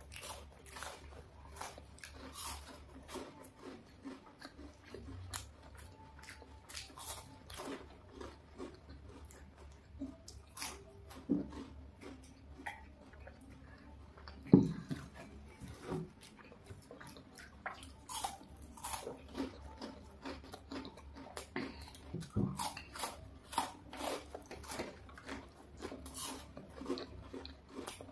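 Close-miked biting, crunching and chewing of chocolate bars: irregular crisp crackles and wet mouth sounds over a faint low hum, with one louder thump about halfway through.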